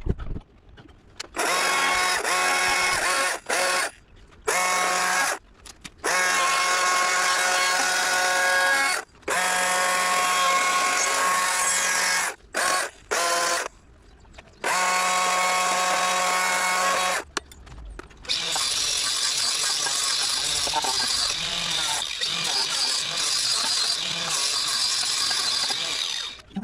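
Power tool run in a string of short on-off bursts, each a steady even pitch, then run for a longer stretch with a rougher, noisier sound.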